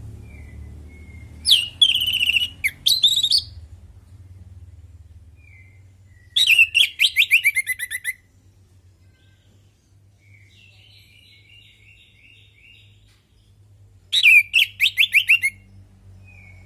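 Orange-headed thrush singing: three loud bursts of rapid, varied notes, with a quieter phrase between the second and third bursts and soft notes in the gaps.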